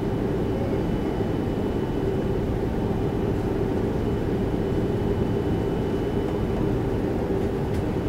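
Steady cabin noise inside an Airbus A330-300 airliner: a low rumble with an even jet-engine hum and a faint high whine, unchanging throughout.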